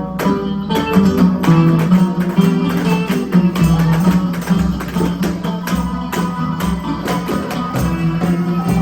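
Band playing an instrumental passage: plucked strings and hand percussion in a quick, busy rhythm over a held low note.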